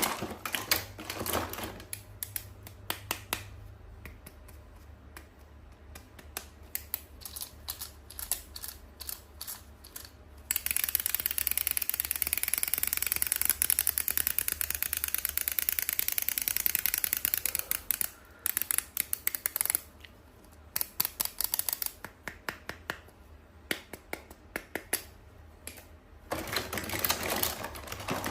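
Hands handling and unwrapping toy packaging: quick clicking taps on plastic and cardboard, with a long stretch of continuous crinkling rustle in the middle.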